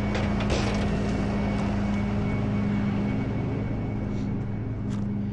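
Tow truck's engine idling with a steady hum, with a few light clicks and knocks of handling gear.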